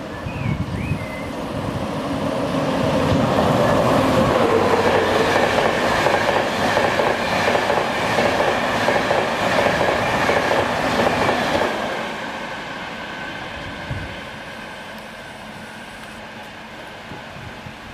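High Speed Train's Class 43 diesel power car approaching at speed: engine and high whine growing louder over the first few seconds, with a fast clatter of wheels on the rails. The sound stays loud until about two-thirds of the way through, then drops away.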